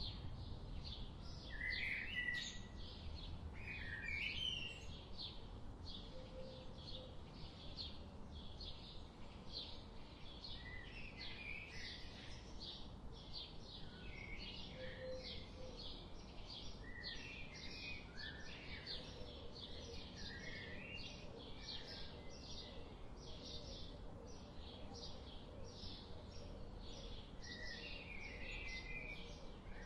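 Birds chirping and singing: rapid, repeated high chirps throughout, with lower warbled phrases every few seconds, over a faint low rumble.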